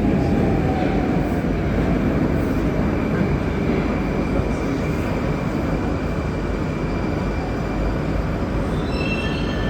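Interior of an 81-761 'Oka' metro car at a station stop: a steady low rumble, with a faint electric whine falling in pitch at the start as the train slows. A few high steady tones begin near the end.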